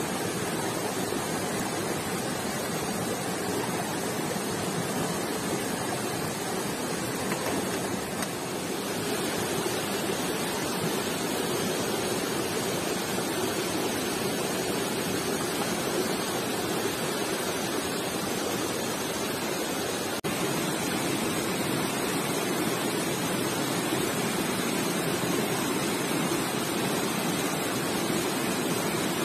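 Stream water rushing and splashing steadily over rocks.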